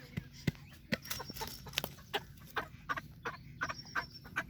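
Chicken clucking in a steady run of short, sharp clucks, about three or four a second.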